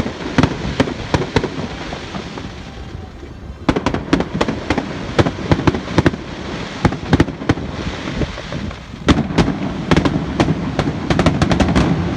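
Fireworks going off in a rapid barrage of sharp bangs, with a short lull about three seconds in, then coming thicker toward the end. A steady low rumble of wind on the microphone runs underneath.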